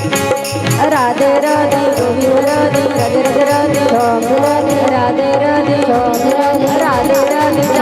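Devotional kirtan bhajan music: drums keep a steady quick beat under a sustained melody, with a voice singing long sliding notes about a second in and again near the end.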